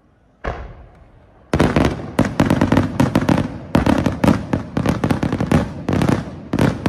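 Aerial firework shells bursting overhead: a single bang about half a second in, then from about a second and a half a fast, dense string of bangs that overlap one another.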